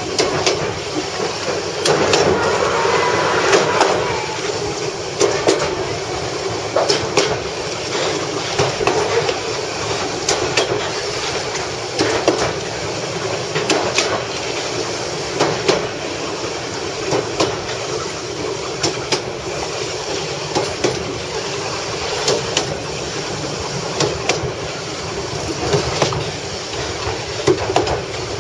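Passenger train running along the line: a steady rumble and rattle of the car, with sharp wheel clicks over the rail joints every second or so. The clicks are a little louder about two to four seconds in.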